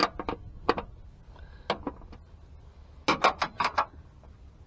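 Sharp clicks and taps of parts and tools being handled, spaced out at first, then a quick run of five or six louder clicks about three seconds in. A low wind rumble runs underneath.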